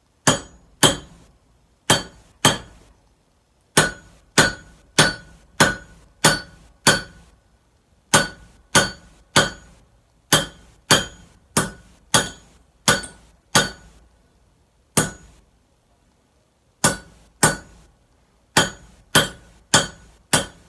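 Hand hammer striking a hot Damascus billet on an anvil to straighten it. Sharp ringing blows come about every half second in runs, with pauses of a second or two between runs.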